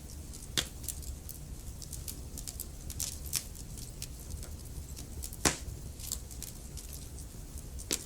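Burning wood in a fireplace crackling: many small crackles over a steady low rumble, with louder pops about half a second in and about five and a half seconds in, the second the loudest.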